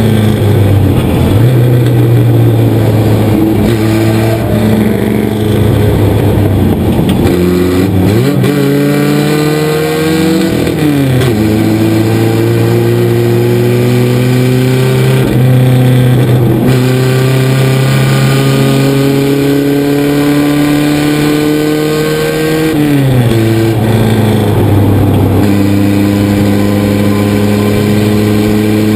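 1976 Chevrolet LUV race truck's engine under hard load, heard from inside the cab over road and wind noise. Its pitch climbs slowly, drops sharply twice (about eleven and twenty-three seconds in, with smaller dips between) as the revs fall, then climbs again.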